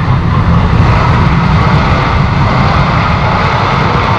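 Jet airliner's engines running loud and steady, a deep rumble with a rushing hiss above it.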